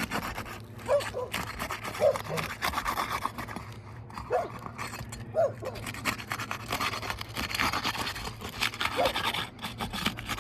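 Asphalt roof shingle being pried and worked loose by hand, scraping and rubbing in uneven strokes as its seal strip is broken, with a few short squeaks.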